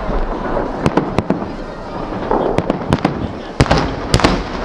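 Festive fireworks salute: about ten sharp bangs at irregular intervals, some close together in pairs, over a steady background of crowd noise.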